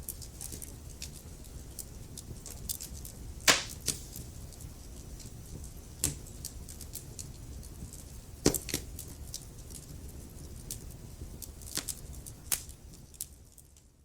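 Wood fire crackling in a fireplace: a low rumble of burning under steady small snaps, with four louder, sharper pops spaced a few seconds apart. The sound fades out near the end.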